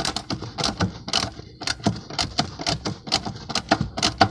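Hand ratchet wrench clicking rapidly and unevenly as it turns out the large screws holding a semi-tractor seat down.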